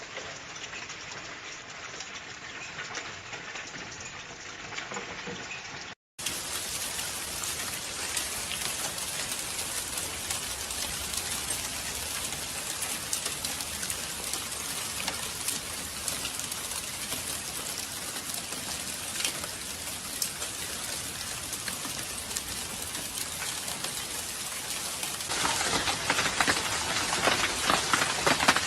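Small volcanic stones and cinders from an Etna eruption pattering down on hard surfaces like a hailstorm: a dense clatter of many small ticks. It breaks off for an instant about six seconds in and grows louder and denser near the end.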